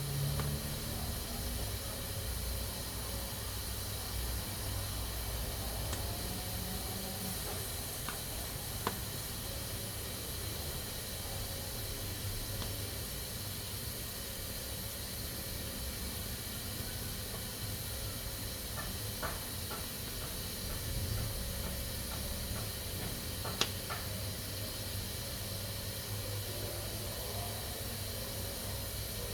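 Pressure cooker hissing steadily as it lets off steam through its valve. A few faint sharp ticks sound over the hiss, the clearest about nine seconds in and near the end.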